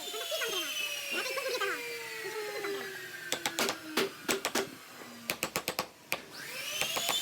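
A small electric power tool's motor winding down after switch-off, its whine falling steadily in pitch. It is followed by a run of sharp clicks and knocks, and near the end the motor spins back up with a rising whine.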